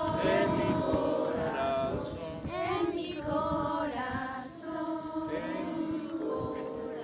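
A group of voices singing together in chorus, a bit quieter in the second half.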